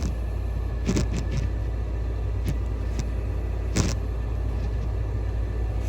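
8,000 BTU portable air conditioner running with a steady low hum. A couple of short clicks sound over it, about a second in and again past the middle.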